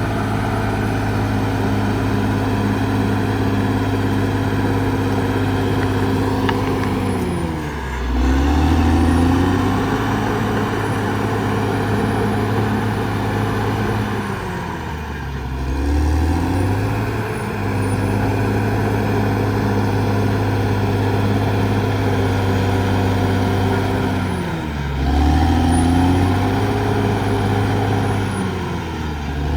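Diesel engine of a Caterpillar D6R XL bulldozer running under load. Its pitch sags and recovers three times, about every eight seconds, as the dozer works through its passes. Faint high squeals sound over the engine.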